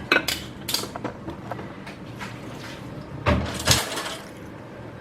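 Dishes and food containers being handled and set down on a kitchen counter: scattered light clinks and knocks, with two heavier knocks a little over three seconds in.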